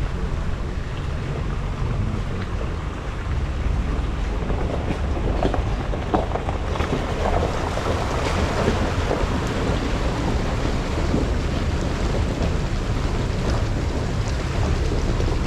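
Jeep driving, a steady low rumble with a rough, noisy hiss on top that grows louder and brighter from about seven seconds in.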